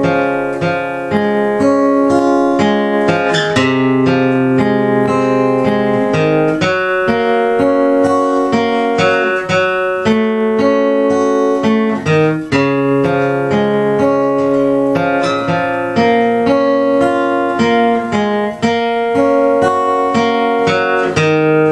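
Acoustic guitar playing an instrumental break in a country song, with chords strummed and picked at a steady pace and no singing.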